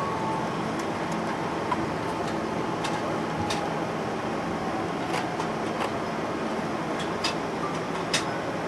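Steady cabin noise of a Boeing 777-300 airliner: a constant rumble with light rattles and clicks scattered through it.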